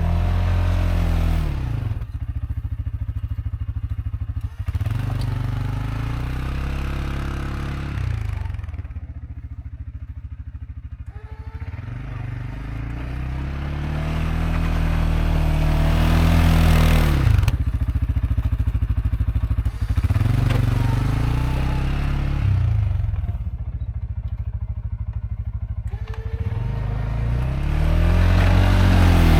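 CFMOTO CForce 520L ATV's single-cylinder engine revving up and falling back again and again, about five times, as it pushes snow with a front plow.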